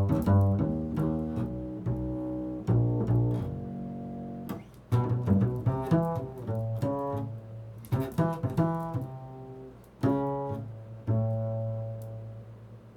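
Slow, improvised solo music on a low-pitched plucked string instrument: single notes and chords struck every second or two, each ringing out and dying away, fading down near the end.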